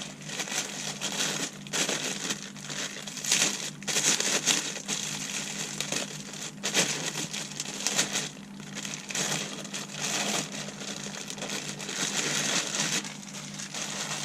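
Plastic packaging crinkling and rustling in irregular bursts as new engine parts are unwrapped by hand. The rustling stops about a second before the end.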